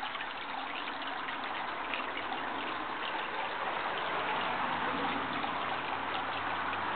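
Water trickling and running steadily. A low steady hum grows in about four seconds in.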